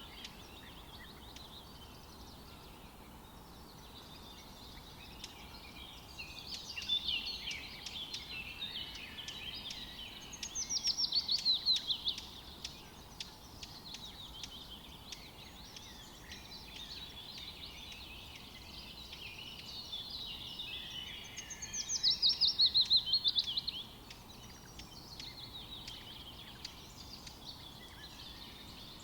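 Birds singing and chirping, with two loud, rapid trills of falling notes, about eleven and twenty-two seconds in.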